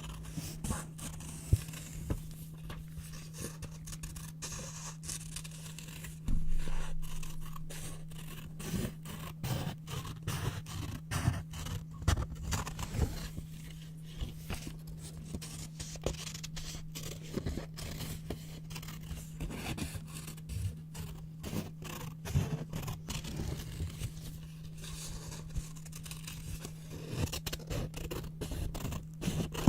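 Scissors cutting white paper close up: a dense run of irregular snips, with paper rustling and scraping between them.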